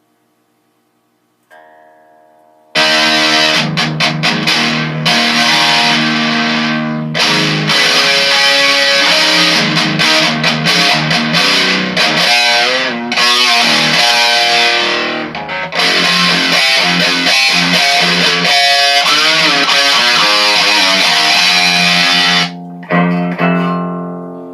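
Electric guitar, a Les Paul tuned down to drop D flat, played through a Danelectro FAB D-3 Metal distortion pedal with its tone knob rolled almost fully to the bass side. A single note comes in about a second and a half in, then a loud distorted riff runs until near the end, where the notes ring out.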